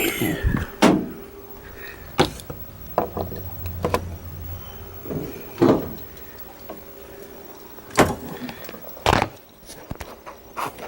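Irregular knocks and clunks from a countertop portable dishwasher being moved and hooked up, about nine sharp ones spread over several seconds, with a faint steady hum underneath.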